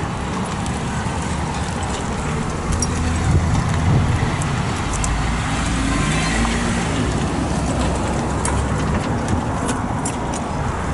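Motor vehicle engine running with a steady low rumble that swells briefly midway, with scattered light clicks and knocks.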